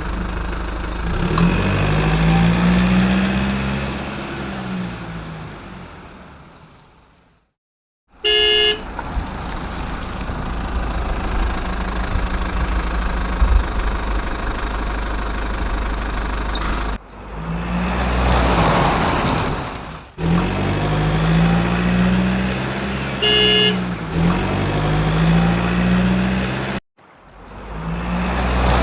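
Vehicle engine sound effects running and revving up and down, with a short horn toot twice. The sound fades out to silence about seven seconds in, and later cuts off abruptly several times.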